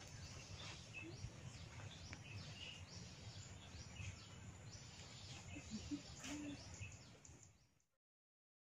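Faint background of birds chirping, many short chirps over a low rumble. The sound fades out about seven and a half seconds in and goes completely silent.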